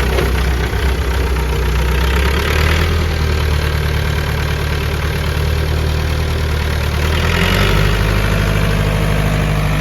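Massey Ferguson 165 tractor's four-cylinder diesel engine running steadily, its note changing about seven and a half seconds in.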